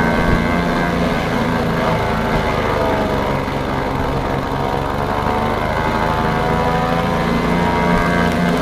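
Small engine of an elephant-grass chopper running steadily, its pitch sagging slightly and recovering about midway.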